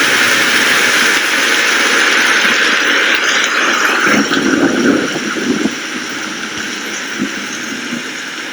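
Steady rain falling, a dense hiss. About four to six seconds in, a lower, rougher patter rises beneath it, and after that the rain settles a little quieter.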